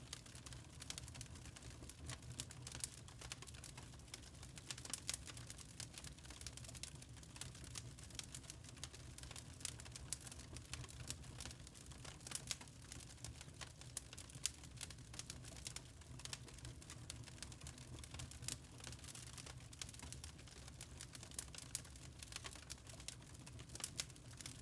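Burning charcoal crackling: a dense run of small, irregular pops and ticks over a low steady rumble.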